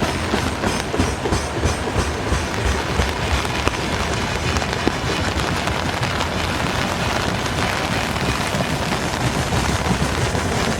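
Freight train hauled by a 2ES5K 'Ermak' electric locomotive passing close by, its wheels rumbling and clattering steadily over the rails.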